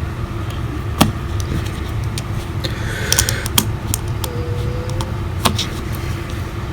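A few sharp clicks and light taps from handling the iPhone SE's small parts while tucking the battery connector cable into place, over a steady low rumble.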